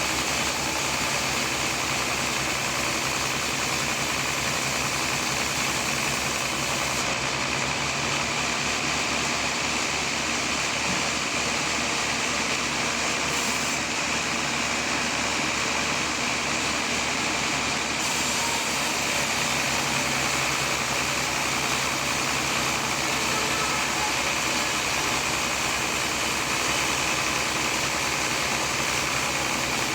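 Sawmill machinery running steadily: a continuous engine-driven noise that holds an even level throughout, with no breaks or separate knocks.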